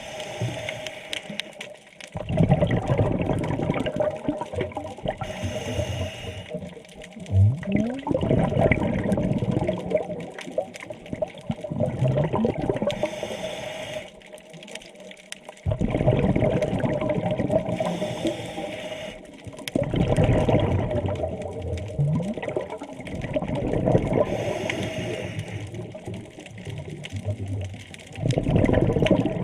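Scuba diver breathing through a regulator underwater: a loud rush of exhaled bubbles every four seconds or so, with quieter inhalations between.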